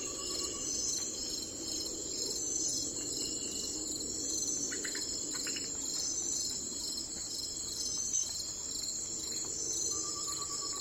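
Steady chorus of crickets chirping, with a pulsed trill at the start and again near the end, and a few short chirps around the middle.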